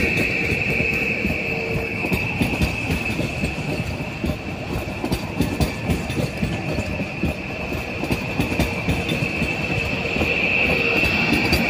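Train moving slowly over the rails with a steady high wheel squeal, which fades through the middle and comes back near the end, over a rumble and a rapid clatter of wheels across rail joints.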